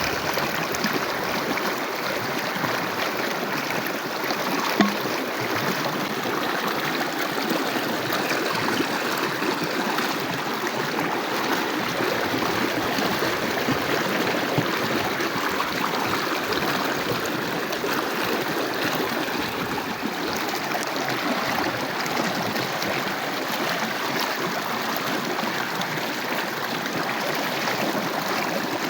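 Water running steadily, an unbroken splashing rush, with a single short knock about five seconds in.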